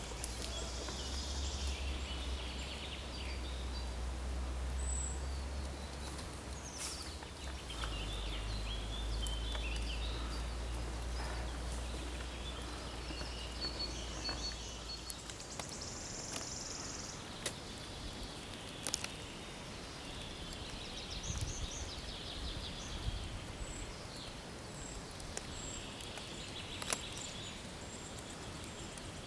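Forest ambience: several birds calling and singing. A low rumble underneath stops about halfway, and a few sharp ticks come later on.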